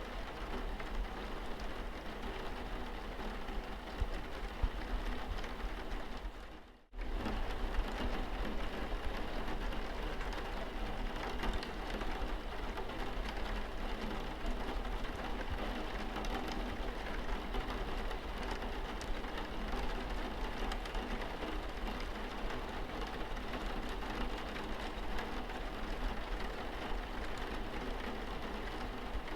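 Rain pattering steadily on a car's windscreen, with a steady low hum underneath. The sound cuts out for a moment about seven seconds in, then carries on as before.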